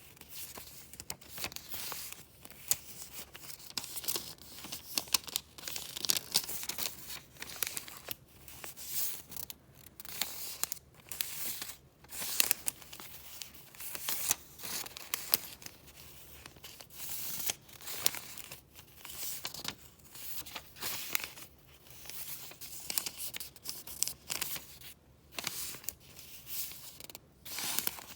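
Paper goods being handled and flipped through: a continuous crinkling and rustling with frequent sharp crackles.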